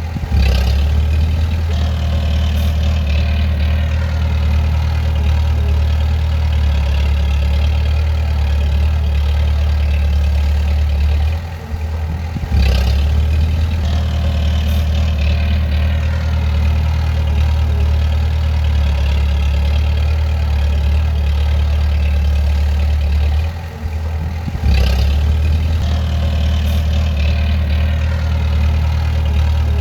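Bulldozer's diesel engine running steadily with a deep drone. The sound briefly falls off twice, about a dozen seconds apart, and comes back sharply each time.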